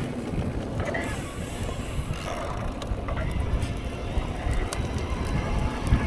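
Mountain bike rolling over a wet, rocky trail: steady tyre and ride rumble with scattered clicks and rattles from the bike.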